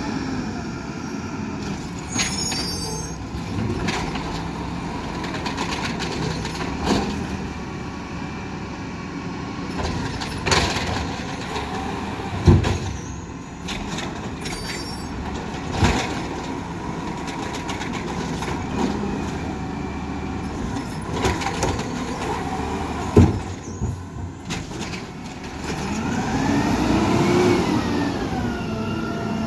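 Garbage truck engine running, with several sharp clanks and knocks; near the end the engine speeds up and settles back down.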